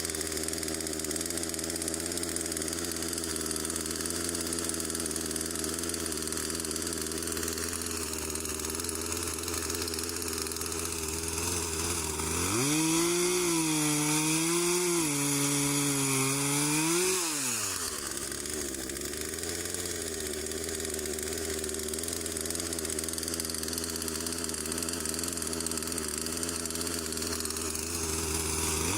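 Two-stroke chainsaw idling steadily. About twelve seconds in it is revved hard for about five seconds, its pitch dipping and recovering as it works, then drops back to idle. It revs up again right at the end.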